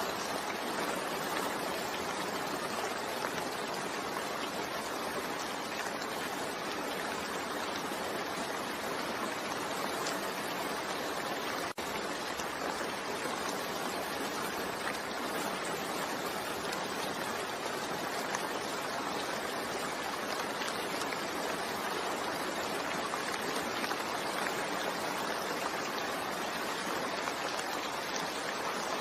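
Steady rain falling, an even hiss with faint scattered drop ticks, broken by a split-second dropout midway.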